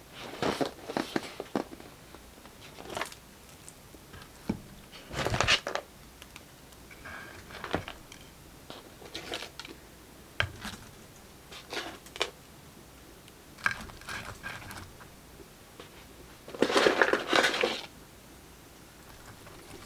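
Crinkling and crunching from handling a fried chicken meal, in short irregular bursts of crackle; the longest burst comes near the end.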